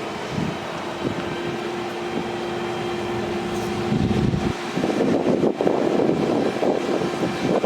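Fire truck engine running steadily with a constant hum. About four seconds in, a louder, rough rushing noise joins it.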